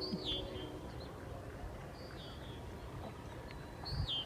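A bird calling: a short high call that drops in pitch, given three times about two seconds apart, over a low outdoor rumble. A faint steady low hum stops just under a second in.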